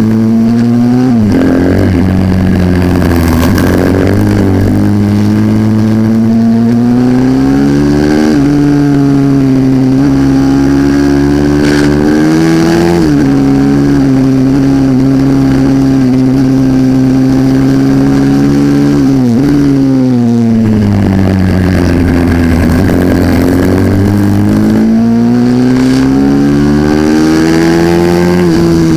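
A racing pit bike's engine revs hard around a track. Its pitch climbs under throttle and drops sharply at shifts or on lifting off, about a second in and again around 8, 13 and 19 seconds, then falls low and builds again near the end.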